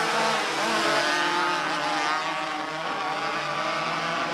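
Engines of several small race cars running together in a race, their pitches wavering up and down as they go around the track.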